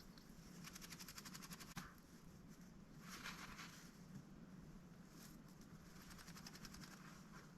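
Faint runs of rapid ticking and pattering, many ticks a second, from a mallard duck moving its bill and body, in three short bursts.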